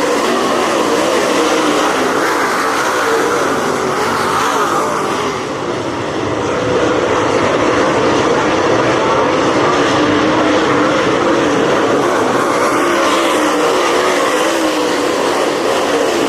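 Race car engines running loud and steady at speed, their pitch rising and falling, with a brief drop in level about five seconds in.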